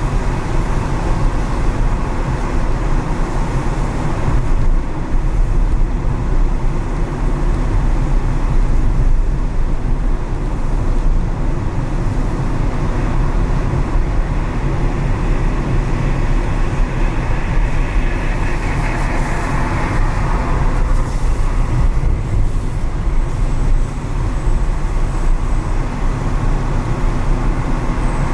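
A car driving through city traffic: a steady low rumble of engine and road noise with tyre hiss. A higher hum swells briefly about two-thirds of the way through.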